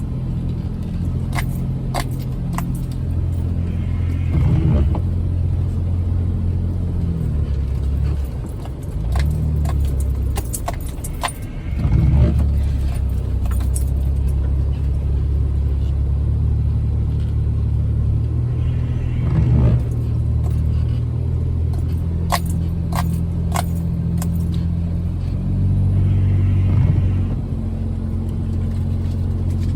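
Jeep Wrangler engine pulling at low speed over a rough trail, its pitch stepping up and down as the throttle changes. Sharp clicks and rattles come repeatedly over the engine.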